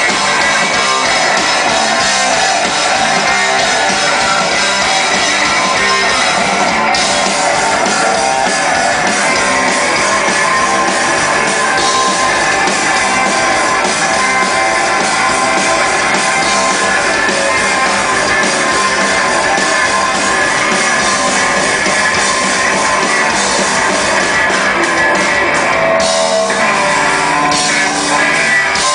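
Rock band playing live: distorted electric guitars and a drum kit in a loud, dense instrumental passage, heard through an amateur concert recording.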